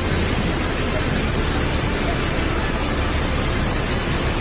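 Steady loud rushing noise with no distinct strikes or tones.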